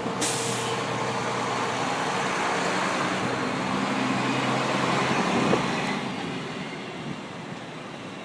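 Street traffic passing on a snowy city street: a vehicle's engine hum and tyre hiss that die away about six seconds in.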